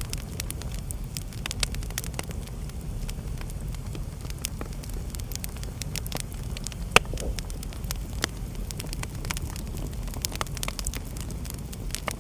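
Wood fire crackling with many small pops and snaps, one sharp loud pop about seven seconds in, over a steady low rumble.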